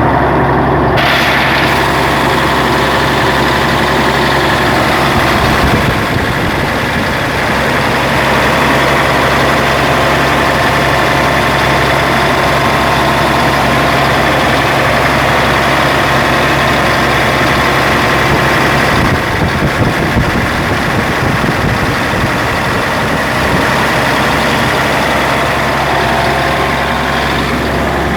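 Freshly rebuilt Scania 112 diesel engine running steadily on its first test run after assembly, running smoothly, a sign that the rebuild has gone right.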